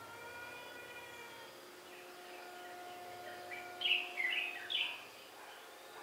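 A bird giving a quick run of bright chirps about four seconds in, over a faint, steady, siren-like hum that holds one pitch.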